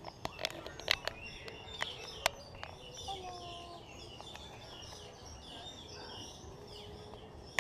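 Many small birds chirping and calling together in a walk-through aviary, overlapping short chirps and warbles throughout. Several sharp clicks sound in the first two seconds or so.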